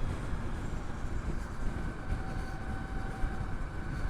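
Wind rush and road noise on a helmet-mounted microphone while riding a Harley-Davidson LiveWire electric motorcycle, with a faint steady whine from the electric drive coming in about two seconds in.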